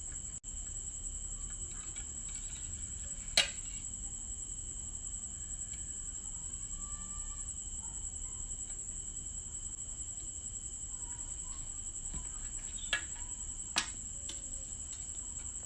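A steady high-pitched chirring with a fainter lower tone beneath it. It is broken by a sharp click about three seconds in and two more close together near the end.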